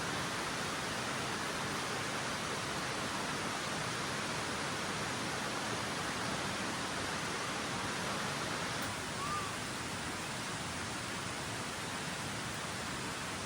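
Steady rushing of a rainforest creek, an even water noise with no let-up. A single short chirp sounds faintly about nine seconds in.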